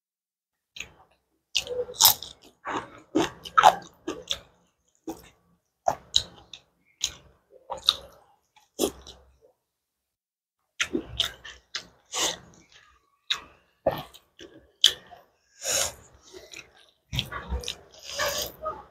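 Close-miked chewing of a mouthful of rice and fried egg: a string of short mouth clicks and smacks, about two a second, with a pause of about a second and a half midway.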